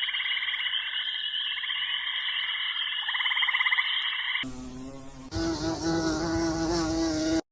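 An animal's rapid buzzing trill, made of fast pulses, running for about four and a half seconds. It gives way to a short, differently pitched call near the end, which cuts off suddenly.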